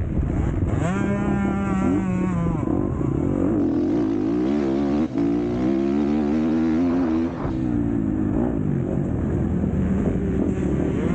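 Motocross bike engine racing, its pitch repeatedly climbing and dropping as the throttle is opened and shut through gear changes, with two brief cuts around the middle. A steady rushing noise runs underneath.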